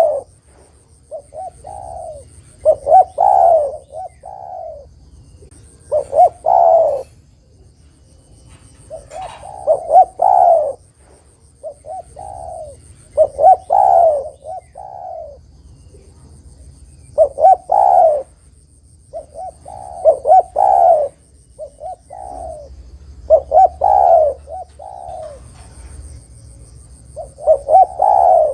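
Spotted dove (tekukur) calling: short phrases of rhythmic, mellow coos repeated every few seconds. A faint steady high-pitched insect-like buzz runs underneath.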